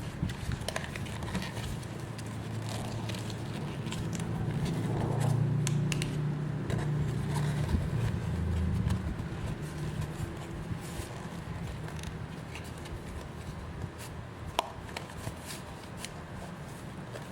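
Scattered clicks and light handling noises over a steady background, with a low hum that swells for a few seconds in the middle and then fades.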